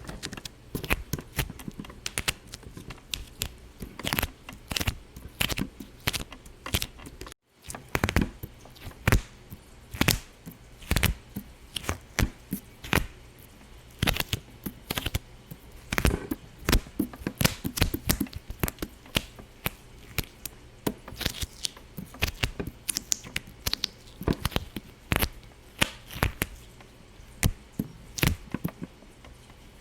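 Irregular sharp pops and clicks, several a second, varying in loudness, breaking off for a moment about seven seconds in.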